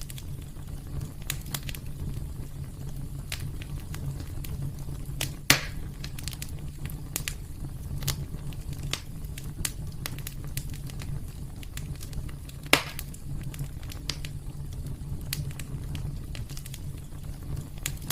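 Wood fire burning in a fireplace: a steady low rumble with scattered crackles throughout, and two louder pops about five seconds in and near thirteen seconds in.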